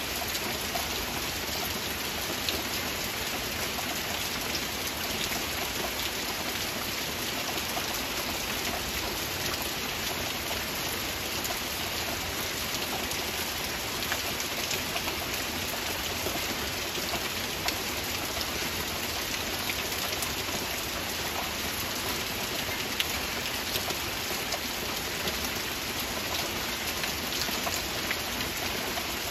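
Heavy rain falling steadily: a dense, even hiss with many small, sharper drop ticks scattered through it.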